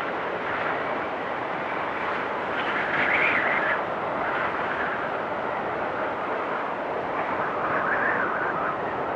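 Wind storm: strong wind rushing steadily with a whistling edge, swelling into louder gusts about three seconds in and again near the end.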